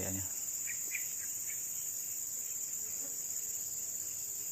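Steady, high-pitched chorus of insects buzzing without a break, with a few faint short chirps about a second in.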